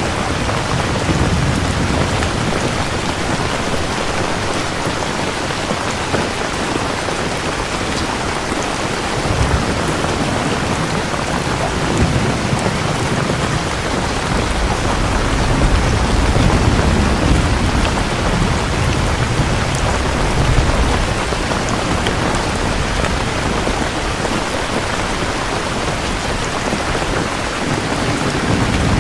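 Steady heavy rain falling, with low rolls of thunder rumbling several times.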